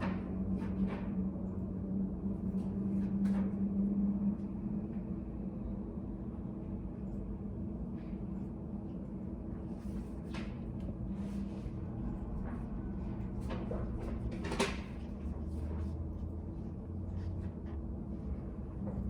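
Study cafe room ambience: a steady low hum with scattered soft clicks and knocks, the sharpest about fourteen and a half seconds in.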